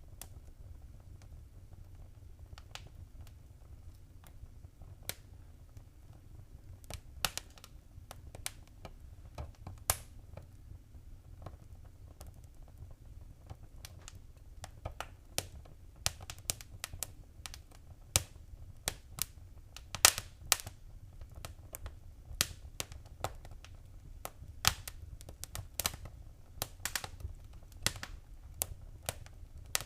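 Wood fire crackling: irregular sharp pops and snaps over a low steady rumble. The pops are sparse at first and come more often in the second half.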